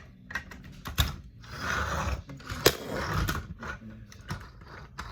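Plastic LEGO bricks clicking and rattling as they are handled, with a stretch of rustling in the middle and one sharp loud click just before the three-second mark.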